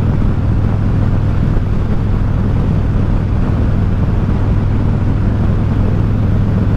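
Harley-Davidson Road King's V-twin engine running steadily while the motorcycle is ridden, under an even rush of wind and road noise.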